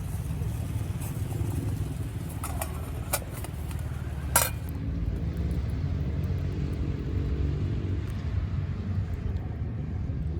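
Wood fire burning in a Solo Stove. Three sharp crackles about two and a half, three and four and a half seconds in, the last the loudest, over a steady low rumble.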